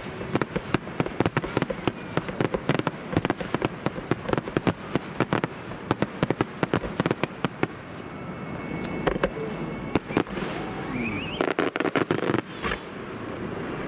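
Aerial fireworks bursting: a rapid, dense run of sharp cracks for about the first half, then thinning to a few scattered, louder bangs near the end.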